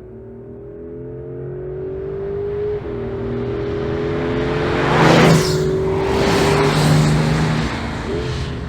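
Porsche 911 Carrera 4 GTS Hybrid's flat-six exhaust as the car accelerates, the engine note climbing steadily and dropping at upshifts about three seconds and eight seconds in. It grows louder throughout, with a loud rush of noise about five seconds in.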